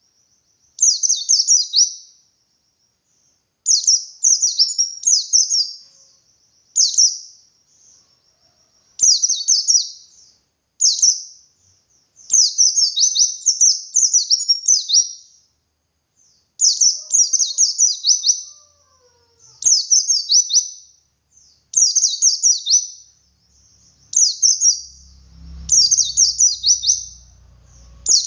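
White-eye (pleci dakun) singing in the continuous ngalas style: phrases of rapid, high, sharply falling notes, each one to three seconds long, with short pauses between. This song is used as a lure to make other white-eyes start singing.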